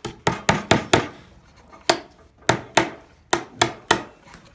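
Hammer driving nails into wooden boards: about ten sharp strikes in uneven runs, four quick blows in the first second, then spaced pairs and a closing run of three.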